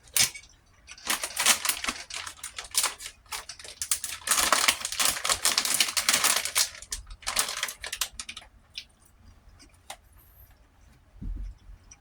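Close-miked eating sounds: two long runs of rapid, crackly clicking from chewing and crunching food, then a few scattered clicks and a low thump near the end.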